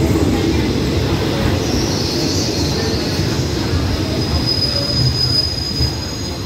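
Passenger train rolling slowly into a station, its coaches rumbling over the rails. A high squeal rises briefly about two seconds in, and a thin steady squeal follows a little later as the train brakes to a stop.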